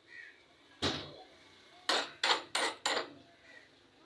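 Five sharp knocks of a hard object striking something hard: a single knock just under a second in, then four more in quick succession, about three a second.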